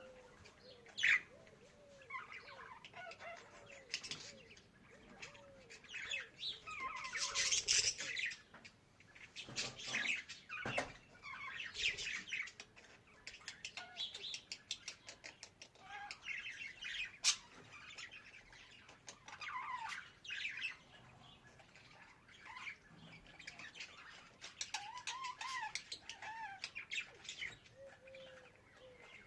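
Budgerigars chirping and warbling in irregular bursts, with a few sharp clicks among the calls.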